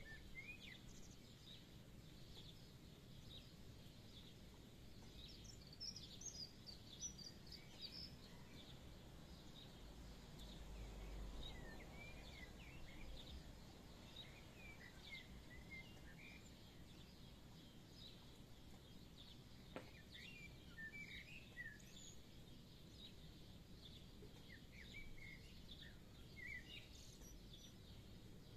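Faint chirping of small songbirds, scattered short calls over a quiet background, with a low rumble swelling and fading about ten seconds in.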